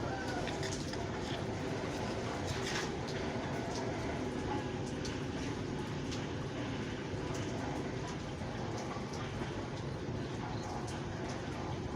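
Steady rain falling, an even rushing noise with scattered short drip clicks.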